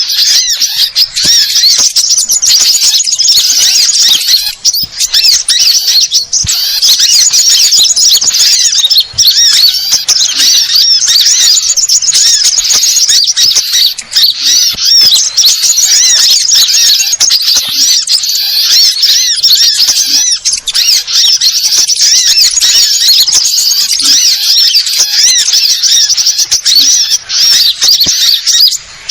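A dense, high-pitched chorus of many small songbirds, sunbirds among them, chirping and trilling rapidly and without pause: an excited 'burung ribut' bird-lure recording. A brief break comes near the end.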